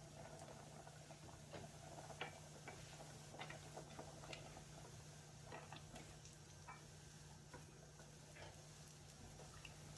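Faint, irregular clicks and small taps at a cooking pot as potato pieces are added to simmering meat, over a low steady hum.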